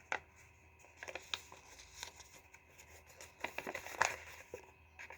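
Origami paper rustling and crinkling as it is folded and pressed along its creases, with a few short, soft crackles.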